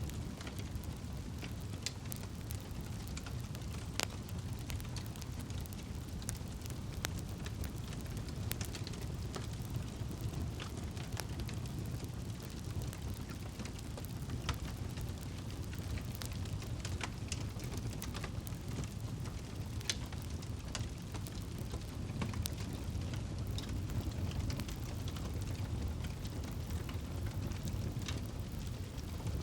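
Campfire crackling: a steady low rush of burning wood with irregular sharp pops and snaps scattered throughout.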